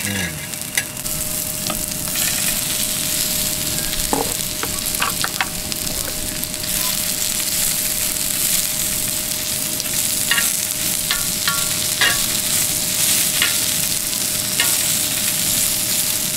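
Chopped onion and karaage chicken pieces sizzling on a black griddle pan, with metal tongs clicking and scraping against the pan as the food is turned.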